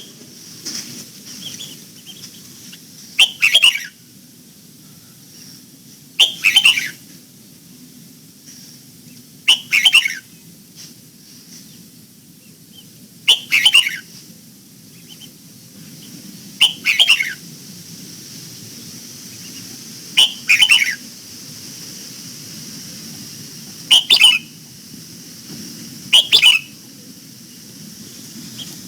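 Red-whiskered bulbul singing short, falling song phrases, eight times, one every three to four seconds, over a faint steady high hiss.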